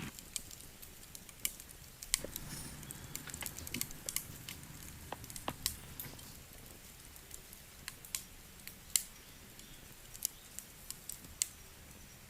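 Campfire crackling: sparse, irregular sharp pops and snaps over a faint low rumble.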